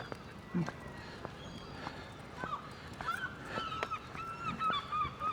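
Gulls calling in a run of short, wavering cries, growing more frequent in the second half, with a few faint clicks around them.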